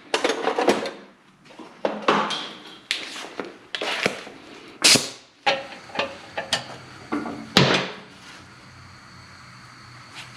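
Metal hand tools clanking and knocking against truck parts: a string of irregular sharp knocks and clatters that stops about eight seconds in, leaving a faint steady hum.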